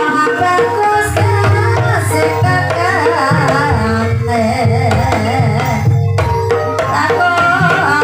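Javanese ensemble music accompanying an ebeg hobby-horse dance: hand drums, tuned mallet percussion and a singer's voice with wavering, ornamented notes, loudest in the middle.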